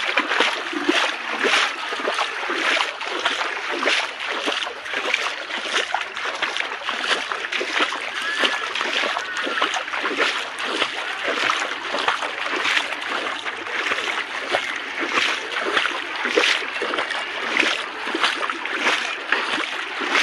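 Floodwater splashing and sloshing continuously in quick, irregular bursts.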